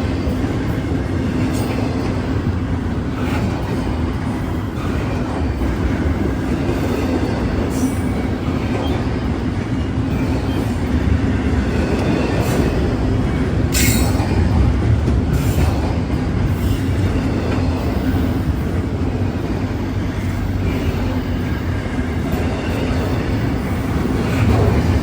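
A train rolling past close by: a continuous heavy rumble of wheels on rails, with sharp clicks every second or two as the wheels cross rail joints.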